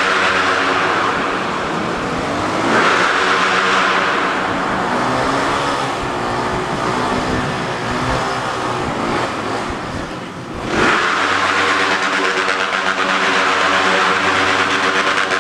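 Motorcycle engine running and revving, its pitch rising and falling, with a sharp rev-up about eleven seconds in.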